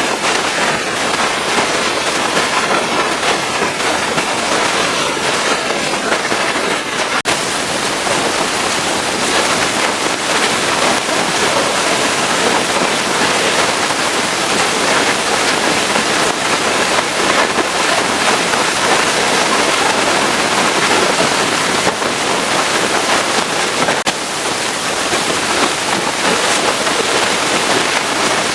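Pressure washer spraying a jet of water onto a truck: a loud, steady hiss of spray with a brief break about seven seconds in.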